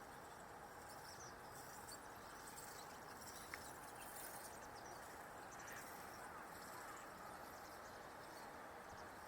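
Faint outdoor ambience: a steady low hiss with scattered faint, high bird chirps in the distance, and a single small click about three and a half seconds in.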